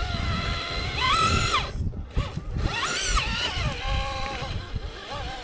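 Electric motor of an RC rock crawler whining under throttle, its pitch rising and falling twice as it climbs, over a low rumbling background.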